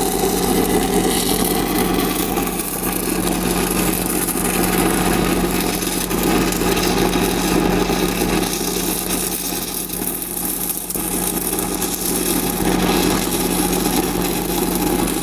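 Stick-welding arc crackling steadily as a downhill root pass is run on a pipe joint, with a steady low hum underneath.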